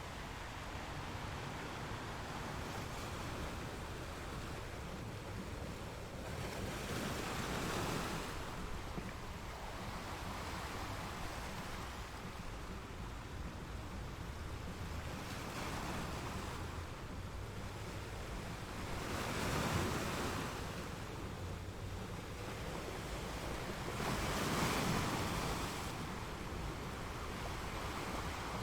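Ocean surf: a steady rush of waves that swells louder three times as bigger waves break, about a quarter of the way in, two-thirds in, and again a few seconds later.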